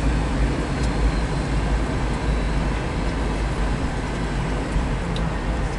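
Steady roar and low rumble of a McDonnell Douglas MD-82 (Super 80) airliner heard from inside the passenger cabin, from its rear-mounted Pratt & Whitney JT8D turbofans and the airframe, with a few faint clicks.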